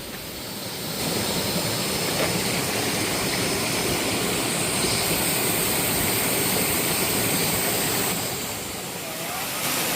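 Waterfall: a steady rush of falling water, a little quieter in the first second and again about nine seconds in.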